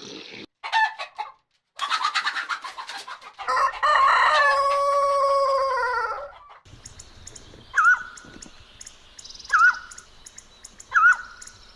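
Bird calls: a couple of short calls, then a quick run of clucking-like notes, then one long drawn-out call lasting about two and a half seconds and sinking slightly in pitch. After a break, a short chirp repeats about every second and a half.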